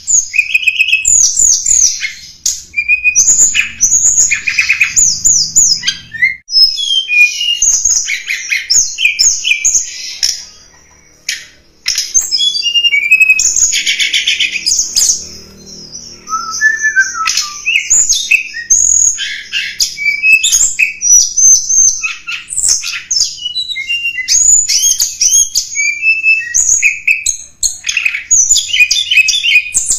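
Tledekan gunung songbird singing a fast, almost unbroken chattering song of high chirps, trills and quick pitch glides, pausing briefly partway through. This is the lure call used to draw in wild tledekan.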